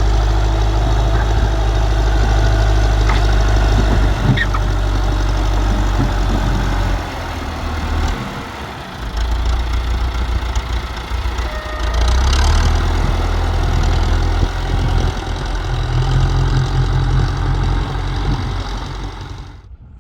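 Tractor engine running, loud and steady, its low pitch shifting several times as the load changes, then cutting off abruptly near the end.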